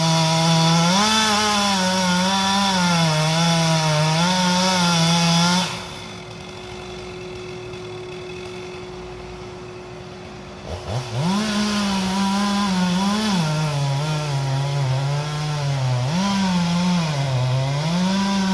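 Chainsaw cutting into the trunk of a large sweet gum tree to fell it, its engine pitch sagging and rising as the chain bites. About six seconds in it drops much quieter for about five seconds, then revs back up and cuts on.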